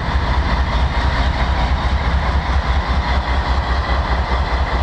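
Diesel freight locomotives running with a steady low rumble as they back slowly toward their train to couple up, a few car lengths from the joint.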